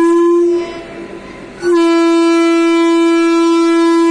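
Vande Bharat Express train horn sounding two long blasts on one steady pitch: the first cuts off about half a second in, and after a short gap the second starts about a second and a half in and holds on.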